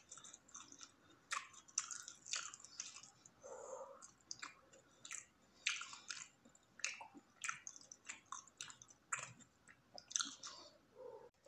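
A person chewing a mouthful of bread sandwich close to the microphone: irregular wet mouth clicks and smacks, several a second, with a brief low hum about three and a half seconds in.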